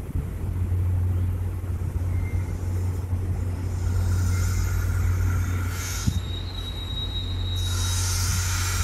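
MBTA commuter rail train rolling slowly towards the platform, cab car leading, with a steady low rumble. From about halfway there is rising hiss, and a thin high squeal is held for about a second and a half.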